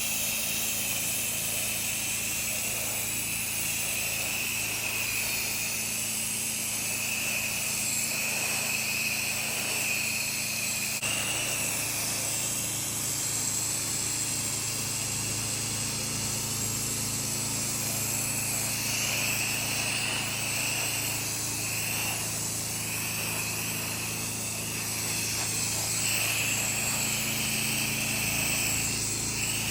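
A pressure washer running steadily, its engine humming under the high hiss of the water spray.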